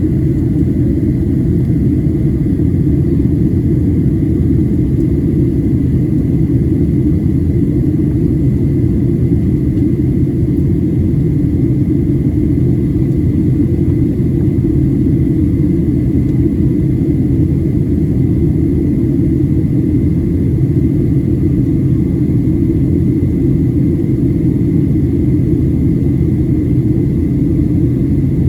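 Steady cabin roar inside a Boeing 737-700 in descent: a constant deep rumble of airflow and engine noise, with a faint steady high whine above it.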